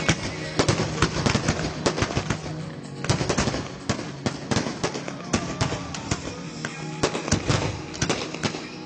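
Aerial fireworks going off in quick succession, with many sharp bangs and crackles, several a second, over music.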